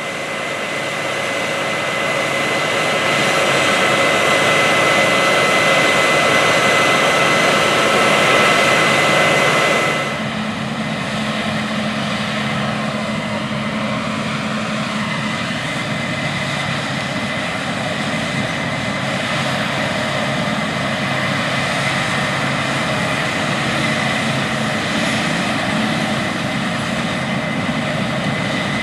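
Large Case IH harvest machinery at work in a wheat field: a loud, steady run of diesel engines and threshing machinery with a high whine. About ten seconds in it changes abruptly to a slightly quieter, lower engine sound.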